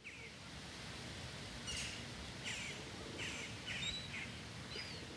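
Small birds chirping outdoors: short falling chirps repeated about every two-thirds of a second, with a faint one at the start, over a steady hiss of outdoor ambience.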